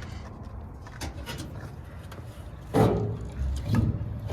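Two short clunks about a second apart over a steady low rumble.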